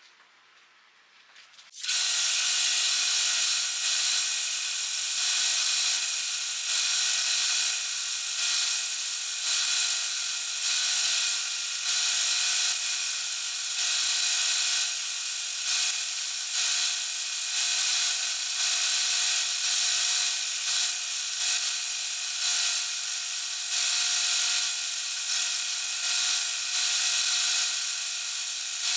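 Small electric power tool starts about two seconds in and runs steadily at a fixed pitch, its level dipping briefly now and then as it works against the piece.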